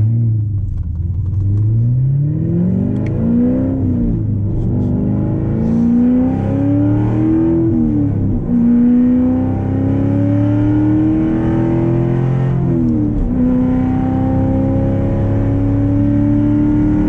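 Straight-piped 2014 Corvette Stingray's 6.2-litre LT1 V8 accelerating hard through the gears. The exhaust note climbs in pitch, drops at upshifts about 4, 8 and 13 seconds in, and climbs more slowly after each shift.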